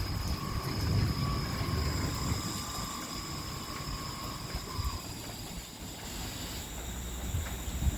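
Christ Genius Vitesse rollover car wash machine running: a low rumble with steady high whines, one of which cuts off about five seconds in and another a little later.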